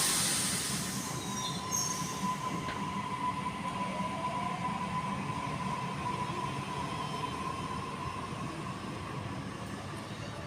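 Sydney Trains Waratah electric train (set A44) pulling out of the station. A burst of hiss at the start, then a low rumble with a steady high tone and a fainter rising whine as it accelerates away.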